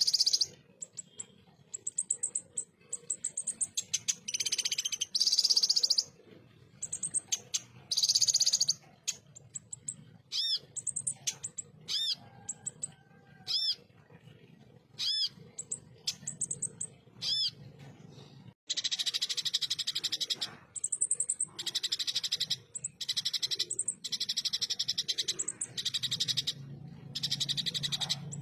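A kolibri ninja (konin) singing in rapid-fire 'tembakan' bursts: dense, coarse, high-pitched chattering trills broken by short pauses. In the middle comes a run of separate looping whistled notes, about one every second and a half, before the fast bursts resume.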